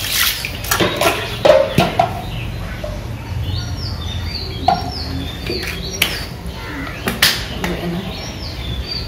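Small birds chirping over and over in short high calls, with several sharp knocks and slaps from the fish being handled on wet concrete. The knocks are loudest in the first two seconds and again around six and seven seconds in.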